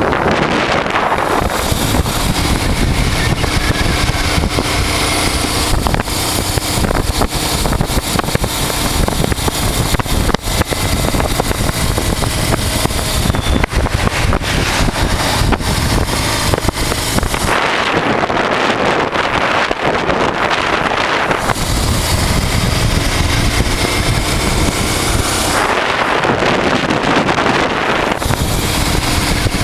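A 1988 Honda Transalp's V-twin engine running at road speed, with heavy wind rushing over the microphone. Twice the low rumble drops away for a few seconds and a hissier rush takes over.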